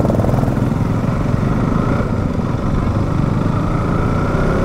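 Motorcycle engine running steadily while riding, most likely the single-cylinder engine of a KTM RC 200; its note rises slowly through the second half.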